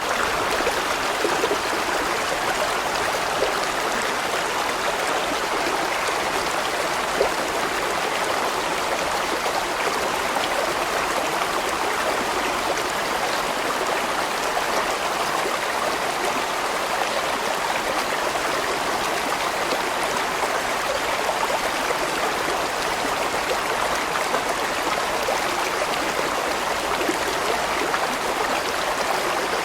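A large mountain stream flowing over rocks, a steady, unbroken rushing of water.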